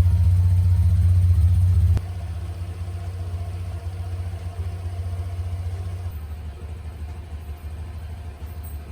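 A vehicle engine's steady low rumble. It drops sharply in level about two seconds in and again around six seconds in.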